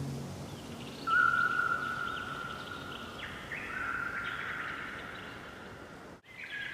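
Songbirds singing at dawn. About a second in comes a long, steady, clear whistle, followed by shorter whistled notes and quick trills. The sound drops out for an instant near the end.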